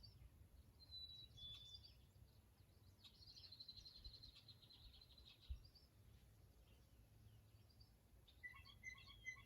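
Near silence with faint birdsong: a few high chirps, a longer trill, then a quick run of repeated chirps near the end.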